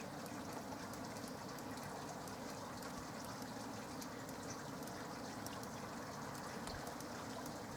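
Steady light rain falling, with many small scattered drips and ticks.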